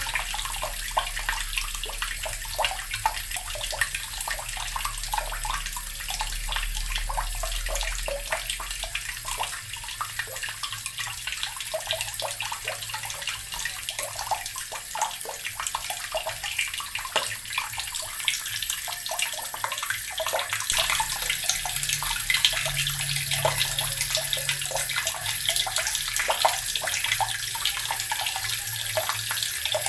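Water running steadily from a tap and splashing into the water below, a constant rush with fine spattering.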